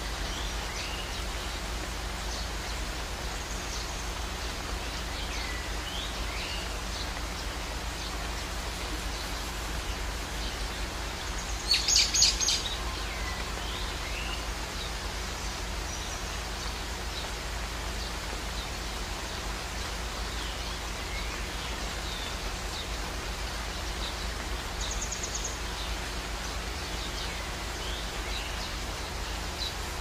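Steady outdoor background hiss with scattered short bird chirps, and about twelve seconds in a loud, rapid bird chatter lasting about a second.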